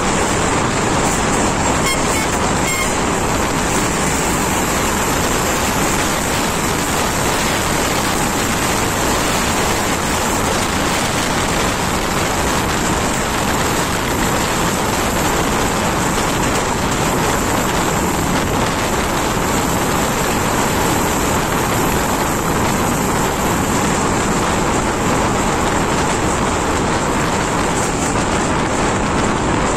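Steady rush of a passenger train running along the track, heard from the train itself with the wind streaming past the microphone.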